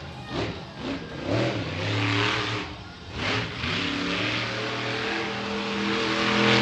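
Monster truck's supercharged V8 engine revving hard in several surges, falling back between them, then holding higher, slowly climbing revs near the end.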